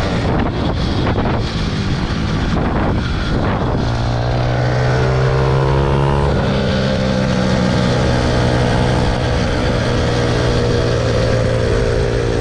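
Small motorbike engine running while riding, with wind noise on the microphone in the first few seconds. About four seconds in its pitch rises for about two seconds as it speeds up, then it holds a steady pitch.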